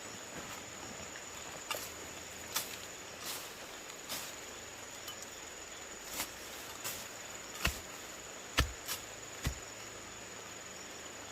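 Steady high-pitched drone of forest insects, with about ten irregular knocks and thuds, the loudest coming in the last few seconds.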